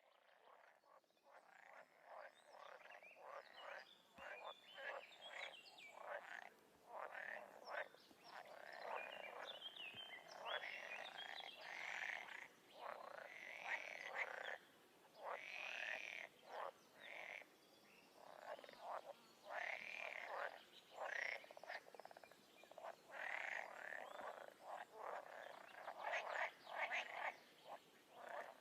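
Frogs calling in a chorus, many short croaking calls overlapping one after another, building up over the first few seconds.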